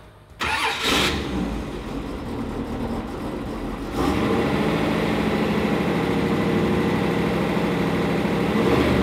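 Small-block Ford V8 cranked by the starter and catching about a second in, then running. About four seconds in it steps up to a louder, steady fast idle, which the crew puts down to the choke being on. It runs clean, with no taps or rattles.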